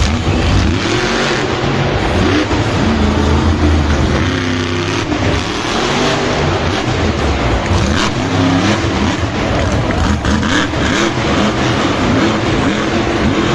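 Monster truck engine revving up and down again and again, loud throughout.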